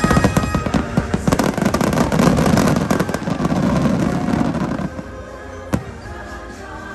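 A dense barrage of fireworks bursts, rapid cracks and bangs for about five seconds, then thinning out, with one more single bang near the end. Show music plays underneath.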